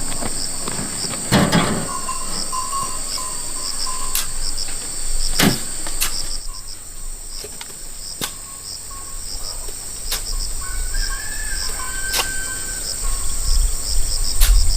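Insects, crickets or cicadas, chirring steadily in a high, pulsing drone, with a few sharp knocks every few seconds and a low rumble near the end.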